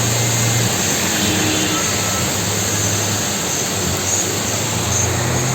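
Steady rushing noise of heavy rain, with the low hum of vehicle engines coming and going underneath.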